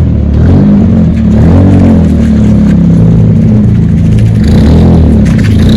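A car engine running at high revs, its pitch rising and falling several times as the car is driven hard.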